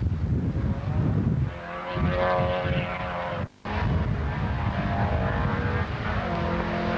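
Rally car engine revving hard, its pitch climbing and dropping back as the driver works the throttle and gears. The sound cuts out for a split second about halfway through.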